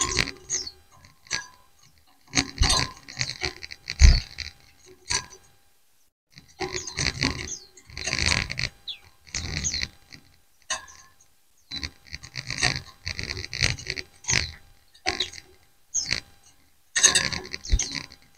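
A group of white-eyes chirping and chattering back and forth in bursts of a second or two, with short pauses between.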